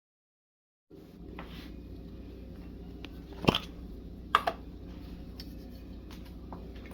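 Handling noises over a steady low hum: small clicks and rustles, with two sharp clacks about three and a half and four and a half seconds in. The sound starts after about a second of silence.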